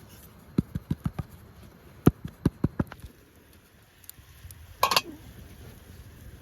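Two quick runs of about five sharp knocks each, then a short scraping or rustling burst near the end.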